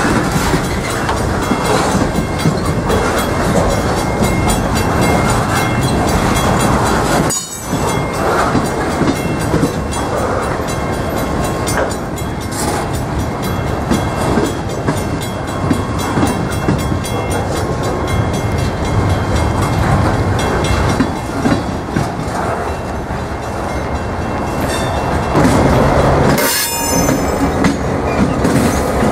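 Freight train cars rolling past close by: a steady, loud rumble and clatter of steel wheels on the rails, dropping out for a moment about seven seconds in.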